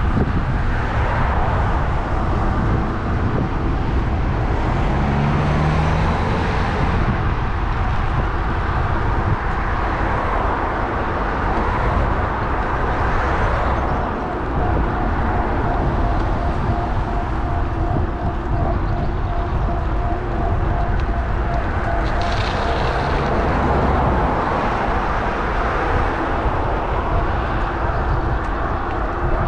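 Steady wind noise on the GoPro mounted on a moving electric bike, with passing road traffic. A faint steady whine joins about halfway through.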